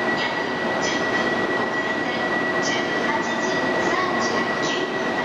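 E2 series Shinkansen train at the station platform: a steady train and platform din with a thin, steady high-pitched tone over it, broken by several short hissing bursts.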